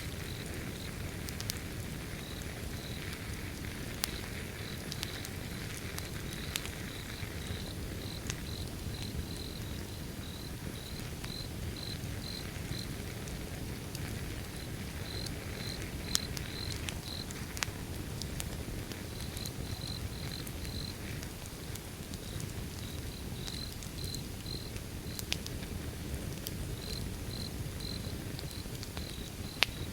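Wood fire burning: a steady low rumble with scattered sharp crackles and pops. Crickets chirp alongside in runs of short, high-pitched pulses, with a few brief breaks.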